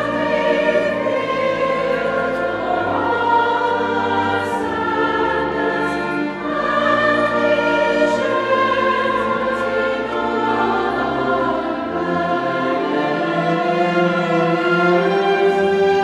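Choir singing sacred music in sustained chords with instrumental accompaniment.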